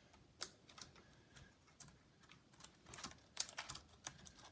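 Faint, scattered small plastic clicks and taps from hands working on an HP Pavilion dv6000 laptop's connectors and case during disassembly, with a cluster of clicks about three seconds in.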